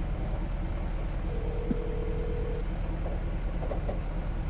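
Motor vehicle engine idling: a steady low rumble. A single steady tone sounds for about a second and a half, starting just over a second in.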